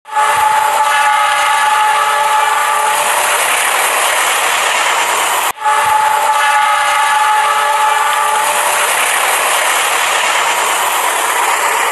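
Train horn held for about three seconds over the steady rumble and wheel clatter of a passing train. The same stretch is heard twice, with a brief break about five and a half seconds in.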